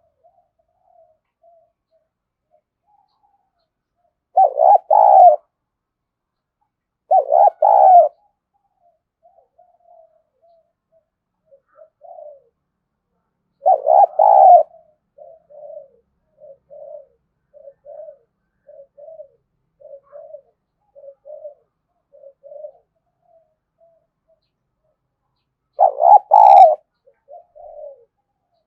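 Spotted dove cooing: four loud coo phrases, each about a second long and made of three quick notes, spaced several seconds apart. Between the third and fourth phrase comes a run of short, soft coos, about one every second.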